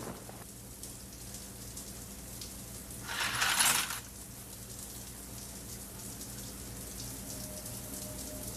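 Faint pattering of water drops over a low steady hum, with a short rushing hiss about three seconds in.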